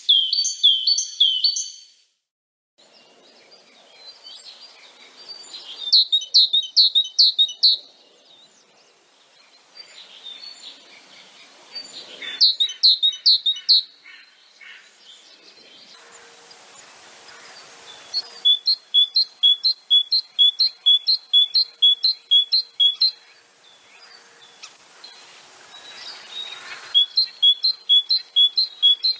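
Songbirds singing: phrases of rapidly repeated high chirps, several notes a second, coming in bursts a few seconds apart, the longest a run of about a dozen notes; the background hiss changes abruptly between phrases, with a brief silent gap near the start.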